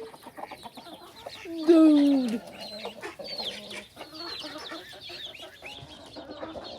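A flock of chickens clucking all around, with many short, high peeping calls that fall in pitch mixed in.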